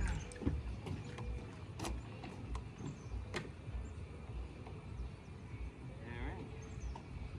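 Outboard motor idling with a low, uneven throb, with a few sharp clicks and knocks.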